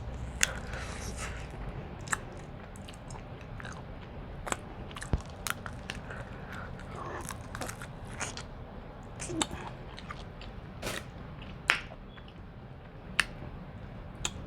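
Close-miked eating of lobster: chewing and mouth smacks, with many sharp, irregular clicks.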